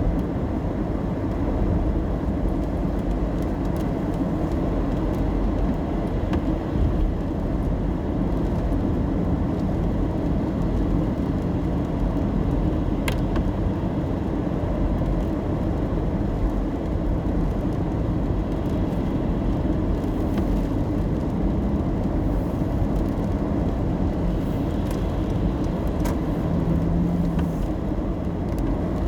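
Steady road and engine rumble inside a car driving in the rain, with a few faint clicks.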